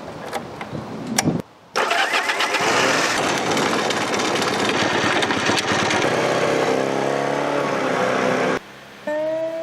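Honda CD125 Benly motorcycle engine: a few clicks, then the engine starts and runs loudly, its pitch shifting in the last couple of seconds before it cuts off. Acoustic guitar music comes in near the end.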